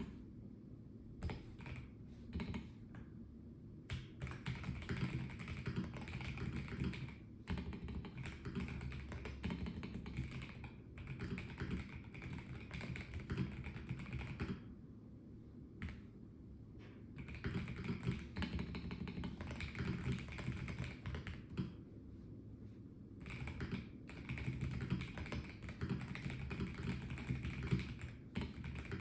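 Typing on a Melgeek Mojo84 plastic-case mechanical keyboard: runs of rapid keystrokes broken by short pauses, the longest about 15 seconds in.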